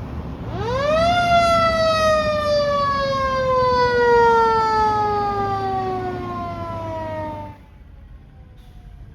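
Fire truck siren giving a single wail. Its pitch climbs quickly in under a second, then slides slowly down for about six seconds before cutting off abruptly, over the low rumble of the truck.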